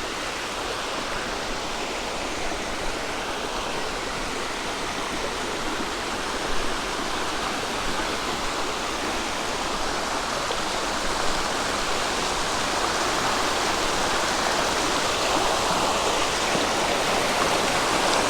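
A creek running: a steady rush of flowing water that grows slightly louder toward the end.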